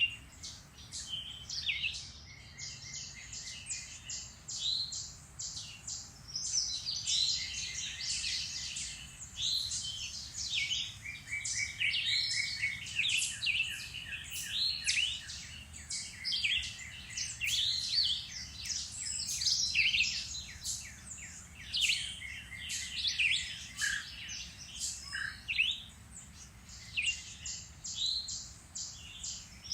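Several songbirds singing and calling over one another in a dense spring chorus: quick chirps and whistled notes, with rapid trills of short repeated notes.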